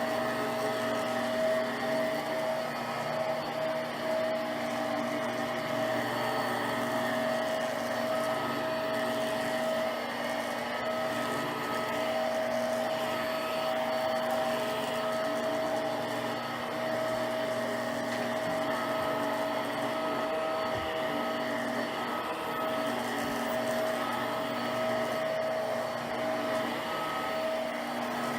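Hoover Power Drive Pet upright vacuum cleaner running steadily: an even motor whine over a rushing hiss of air, with no change in speed.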